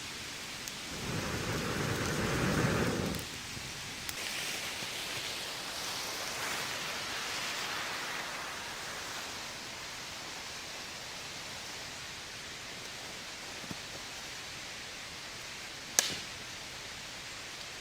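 Steady rain falling in a forest, with a low rumble of thunder from about one to three seconds in. A single sharp crack near the end.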